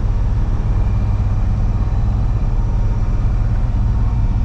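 Freightliner box truck cruising at highway speed, heard from inside the cab: a steady, loud low diesel engine rumble with road and wind noise.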